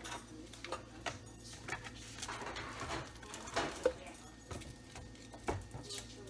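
Scattered light clicks and knocks of household items being handled and set down, over a low steady hum.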